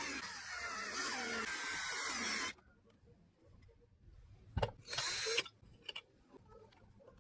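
Electric drill spinning a sanding drum, its pitch sliding up and down. It stops about two and a half seconds in. A click and a second short burst follow around the middle, then a few light clicks.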